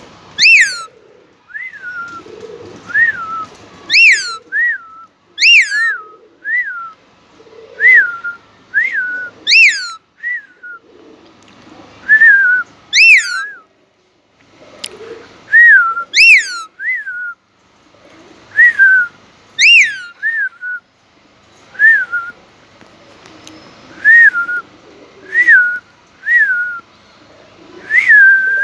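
Indian ringneck parakeet whistling: short groups of two or three quick rising-and-falling whistles, the first in each group the sharpest, repeated about every one and a half to two seconds.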